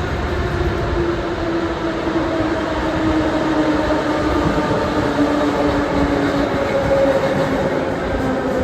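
Moscow metro train running between stations, heard from inside the car: a steady rail rumble with a motor whine that slowly drops in pitch.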